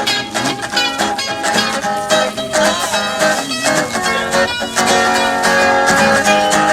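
Live acoustic guitar strummed in a steady rhythm, with a second instrument playing held, bending lead notes over it: an instrumental break between sung verses.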